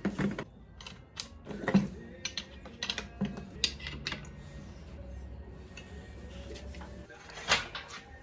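Irregular clicks and knocks of a homemade square-steel-tube angle grinder mount and grinder being handled and adjusted, loudest at the start and again near the end.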